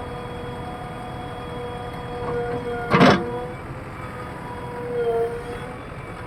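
Heavy machine running with a steady high whine, and one sharp loud knock about three seconds in.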